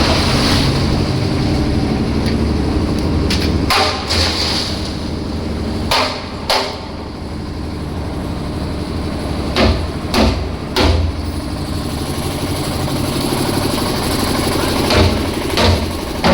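An engine on a slab-casting site runs steadily, with sharp knocks and clanks every few seconds, several coming in pairs.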